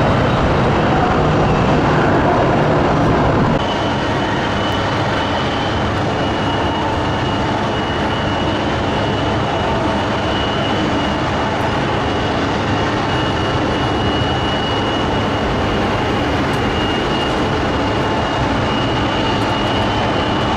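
Steady jet airliner engine noise from an Airbus A321 landing, a rush with a thin high whine above it. For the first three and a half seconds a slightly louder stretch of a Boeing 737-800 landing is heard, then it cuts off abruptly.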